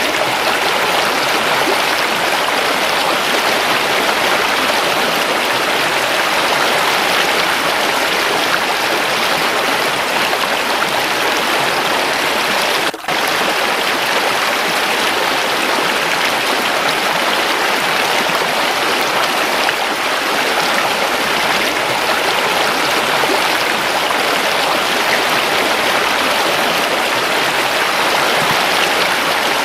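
Waterfall: a steady, even rush of running water, broken by a brief dip in level about thirteen seconds in.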